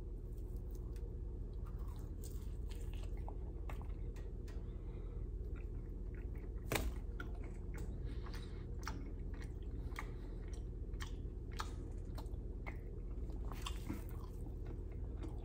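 Close-miked chewing and biting of a fried peach hand pie, the crisp fried pastry crust crackling in many small crunches. One sharper, louder crunch comes about seven seconds in.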